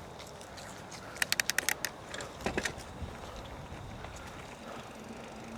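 Bicycle rear freewheel ticking in a quick run of about eight sharp clicks about a second in, over steady low road and wind noise.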